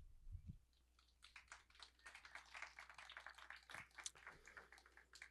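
Near silence: a pause with only faint, scattered high ticks and a low hum.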